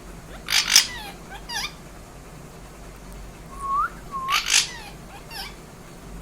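Baby parrot calling: two harsh squawks a few seconds apart, each trailed by short falling chirps, with two short rising whistles just before the second squawk.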